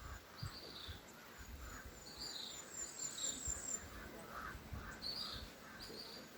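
Birds singing and calling: short chirps, repeated every second or so, with a high, rapid trill of repeated notes about two and a half seconds in, over a faint low rumble.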